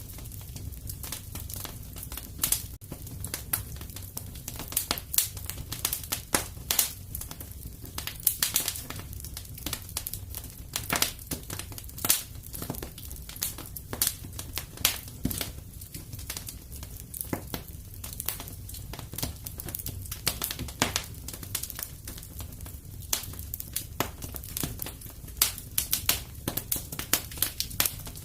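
Fire crackling in a fireplace: irregular sharp snaps and pops, several a second, over a steady low rumble.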